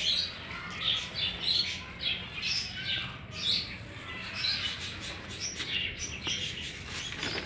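Small birds chirping, many short calls coming one after another.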